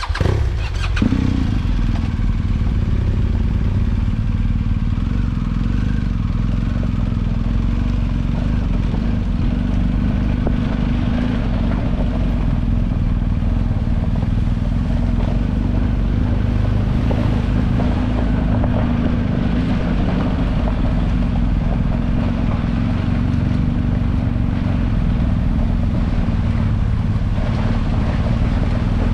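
BMW GS boxer-twin motorcycle engine running steadily and loudly.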